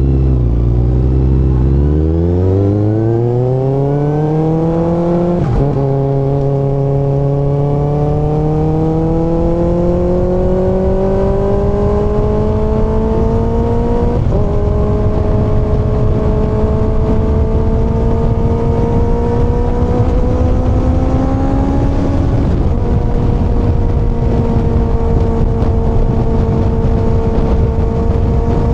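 Kawasaki ZX-6R inline-four engine accelerating up through the gears: the revs climb sharply from low, then each upshift, about five, fourteen and twenty-two seconds in, drops the pitch before it rises again more slowly, settling into a steady cruise near the end.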